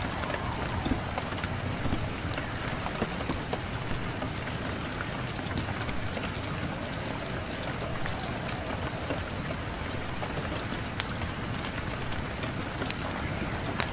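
Wood fire in a fireplace crackling: a steady hiss with scattered sharp pops, over a low wind noise.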